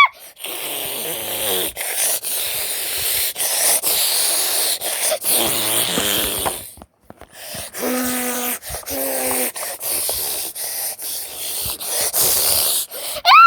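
A child making a flying-plane noise with the mouth: a long breathy whooshing hiss, broken by short pauses, with two brief hummed notes a little past the middle.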